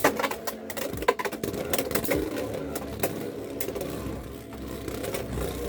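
Two Beyblade X spinning tops, Hell's Chain and Dagger Dran, whirring in a plastic stadium, with many sharp clicks and clacks as they collide and strike the stadium.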